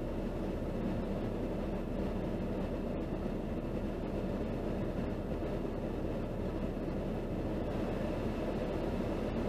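Steady low rumble of a stopped car idling, heard from inside its cabin.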